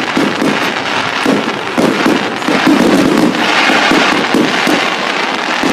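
Fireworks going off in quick succession: a dense, continuous run of bangs and crackles.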